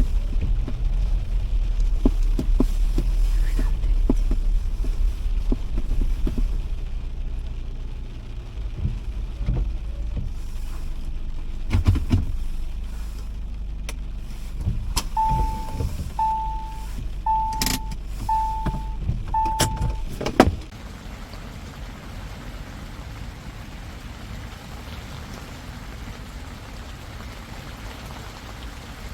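Inside a car: low engine and road rumble that dies down, a few clicks, then five short beeps of a car's warning chime about a second apart, ended by a door thud. Steady rain noise follows.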